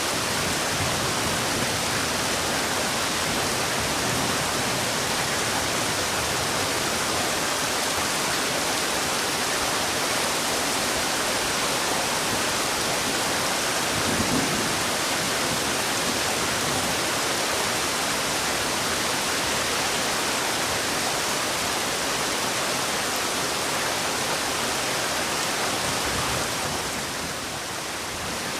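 Heavy rain falling steadily as a dense, even hiss, with one brief low thump about halfway through and a slight easing near the end.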